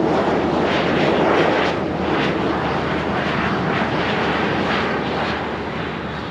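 Aircraft engine noise from an airplane passing close by. It is loudest a little over a second in and then slowly fades.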